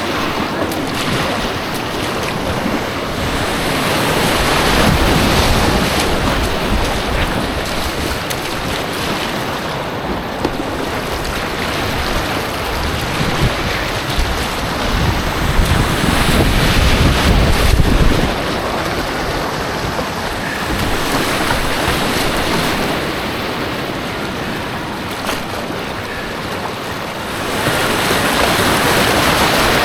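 Rushing white water of an artificial slalom course heard from a kayak, a steady roar of churning water that swells louder several times as the boat runs through rapids.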